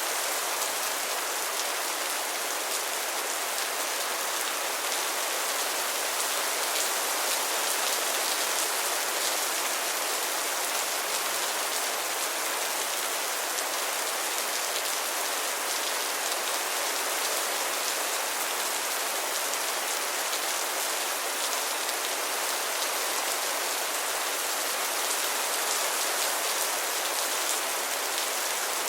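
Heavy rain falling steadily, a dense hiss with countless fine drop ticks on hard surfaces, unchanging throughout.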